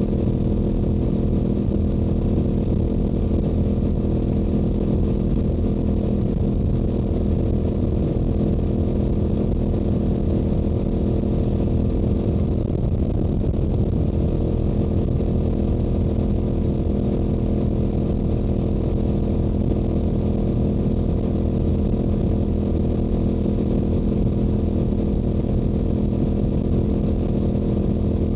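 Yamaha YZF-R7's parallel-twin engine through its stock exhaust, running at a steady highway cruise with an even, unchanging note.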